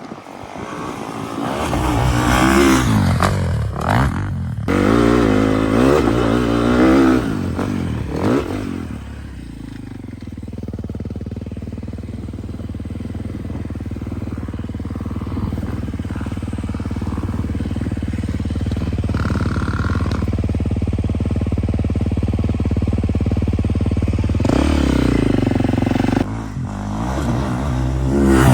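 Sport ATV engine revving hard, its pitch rising and falling repeatedly for the first nine seconds or so. It then runs at a steady, lower pitch for about fifteen seconds and revs up and down again near the end.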